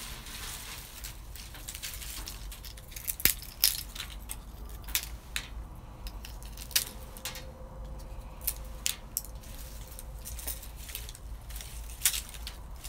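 Beans roasting over a wood fire: a steady hiss with irregular sharp clicks and clinks, several louder ones a few seconds in and near the end.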